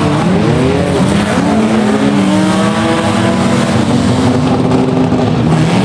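Several banger-racing cars' engines revving at once in a destruction derby, their pitches rising and falling against each other.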